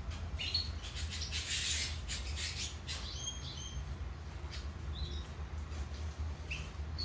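Domestic canary singing in short, broken phrases: scattered high chirps and a rapid trill about a second in, over a steady low hum.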